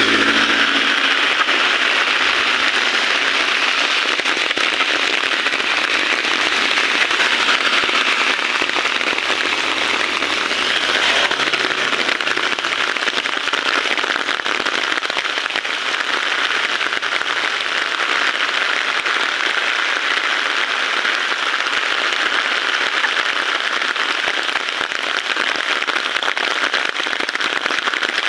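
Heavy rain falling steadily, a dense crackling hiss of many drops striking surfaces close by.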